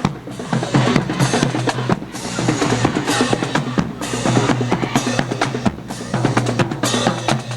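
Marching drum line playing, with dense snare and bass drum strokes.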